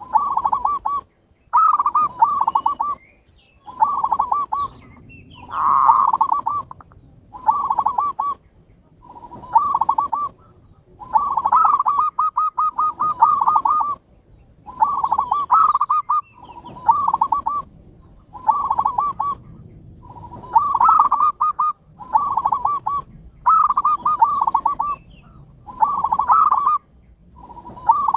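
Zebra doves (perkutut) cooing over and over. Each phrase is a quick run of pulsed coos with a rolling rhythm, and a new phrase comes every one and a half to two seconds. This is the kind of perkutut song played as a lure to set caged birds singing.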